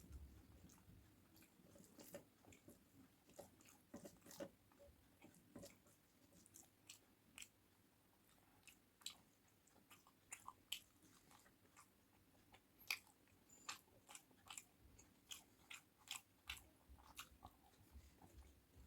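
A person chewing food close to the microphone, faint, with irregular sharp wet mouth clicks and smacks that come more often in the second half.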